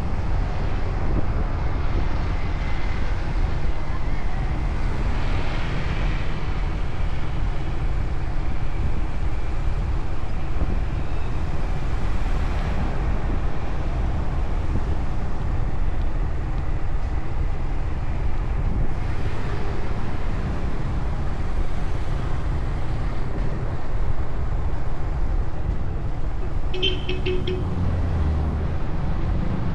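Motorcycle riding through city traffic: steady engine and road rumble, with a short horn beep near the end.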